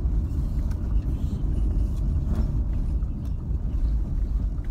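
Car driving along a rough, badly surfaced road, heard from inside: a steady low rumble with a few light knocks.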